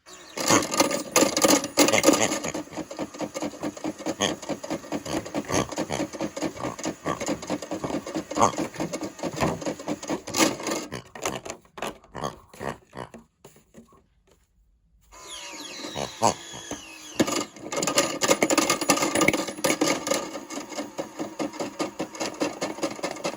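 Toy washing machine running its spin, the small motor turning the drum with a fast plastic rattle of toy figures knocking around inside. It dies away about eleven seconds in and starts up again about four seconds later.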